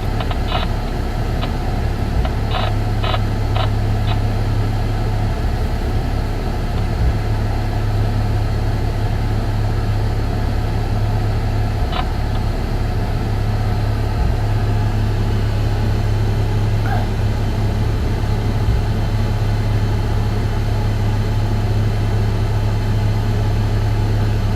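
Steady low hum and rumbling noise inside a cab buffeted by strong, gusty wind, with a few faint clicks in the first few seconds.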